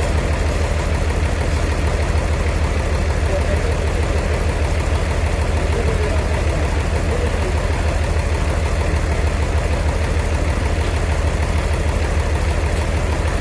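Sawmill machinery's engine running steadily, with a low, even throb and faint voices underneath.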